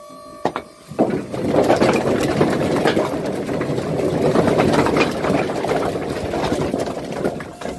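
A load of firewood logs sliding and tumbling out of a tipping delivery truck's bed: a dense clattering rumble of many knocking logs that starts about a second in and dies down near the end.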